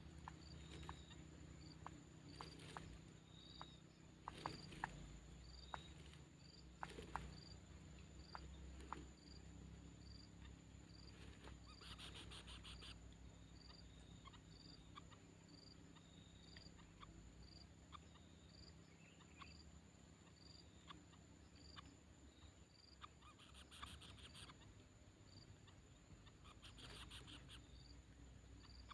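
Faint outdoor insect ambience: a short high chirp repeating about once a second over a steady high whine, with scattered clicks and three short buzzing rasps.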